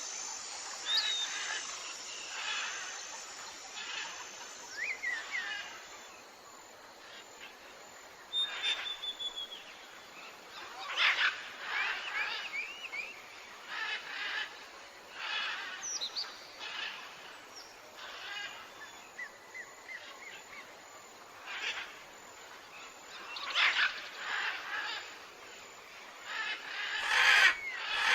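Several wild birds calling and chirping at once in the morning, a busy mix of short chirps and quick rising and falling whistles, with a louder flurry of calls near the end.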